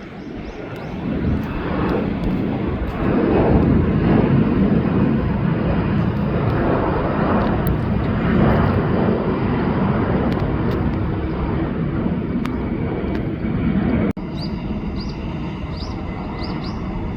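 Jet engines of an Airbus A321-200 at takeoff thrust: a loud, deep roar that swells over the first few seconds and holds. It cuts off abruptly about fourteen seconds in, leaving a quieter rumble with repeated short rising chirps.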